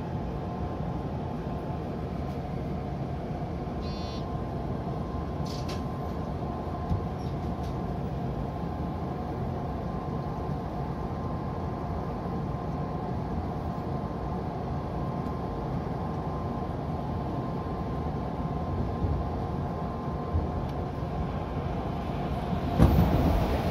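Odakyu 2000 series electric commuter train running, heard from inside the front car: a steady rumble of the running gear with a steady hum. Near the end it gets suddenly louder as an oncoming train passes close on the adjacent track.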